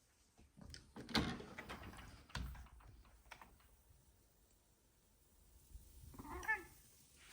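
Several knocks and rustles about a second in, then a short wavering animal cry near the end.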